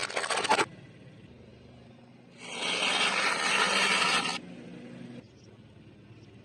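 Food being crushed: a brief crackling crunch at the start, then a loud scraping about two seconds long, fading to a quieter rub.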